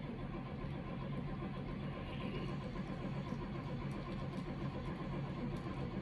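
1971 Oldsmobile Cutlass engine idling steadily just after a cold start.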